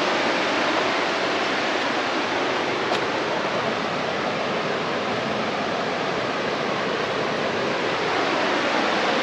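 Waterfall rushing nearby: a loud, steady roar of falling water.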